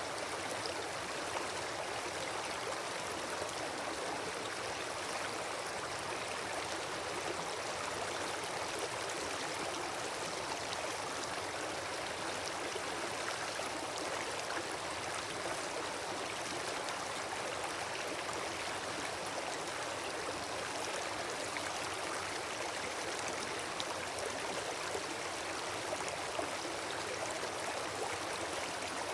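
Wood fire burning: a steady hiss with many small, scattered crackles of burning wood.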